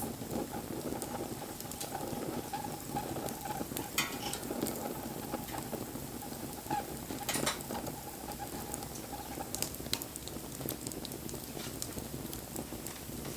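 Wood campfire burning, crackling and hissing steadily with frequent sharp pops, the loudest about four and seven and a half seconds in.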